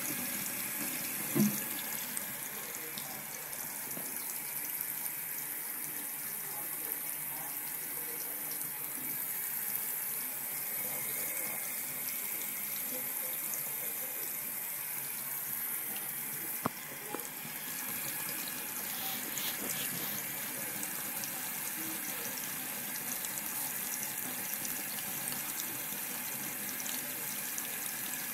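Water tap running in a steady stream into a sink. A short low thump comes about a second in, and a sharp click a little past halfway.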